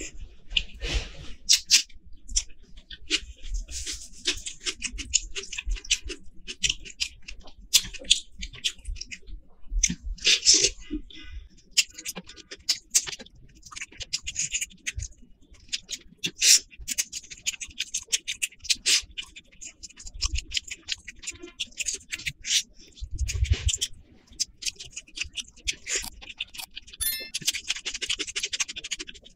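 Close-miked eating sounds: wet chewing and mouth clicks, with the squelch of rice and curry being mixed by hand on a plate. Short irregular crackles and clicks come in quick runs, louder in a couple of clusters.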